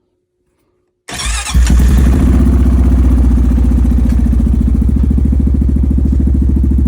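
Cold 2022 Honda Rubicon ATV's single-cylinder four-stroke engine with a full HMF performance exhaust, starting about a second in and catching almost at once, then idling loud and steady through the aftermarket exhaust.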